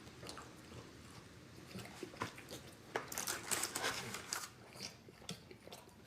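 A person biting into and chewing breaded boneless chicken wings close to the microphone. Scattered crisp crunches build to a dense burst of crunching about three seconds in, then ease off into softer chewing.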